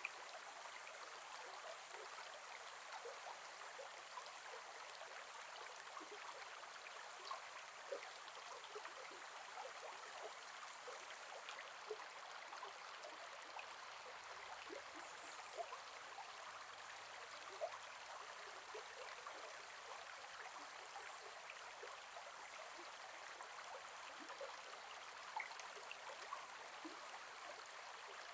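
Small forest river flowing gently: a steady, soft rush of water with many small splashes and burbles, a few of them a little louder.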